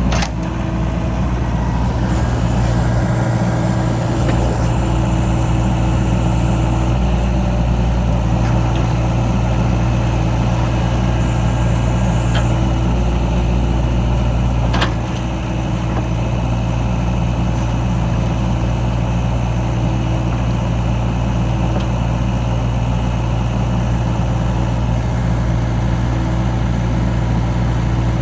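John Deere 60G mini excavator's diesel engine running steadily while the machine works, with a couple of sharp clicks about halfway through.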